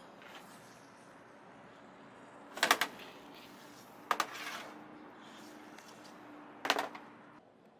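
Three short bursts of sharp clattering knocks, each a few quick hits, spaced over several seconds against a low background hum.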